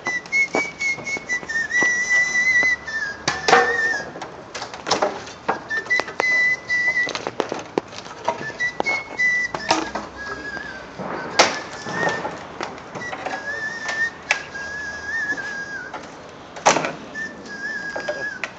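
A man whistling a melody by mouth: a single clear tone that wavers and steps between notes in short phrases, with sharp clicks and knocks scattered throughout.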